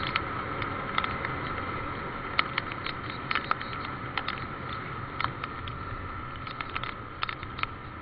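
Irregular taps of raindrops over a steady rushing noise, with a faint steady whine running underneath.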